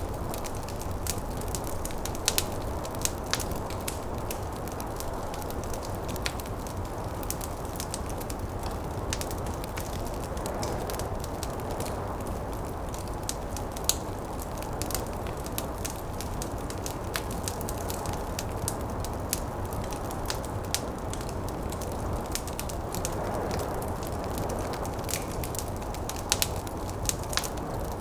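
Wood fire crackling in a fireplace, with frequent irregular sharp pops over a steady low rumble of wind-driven snowstorm.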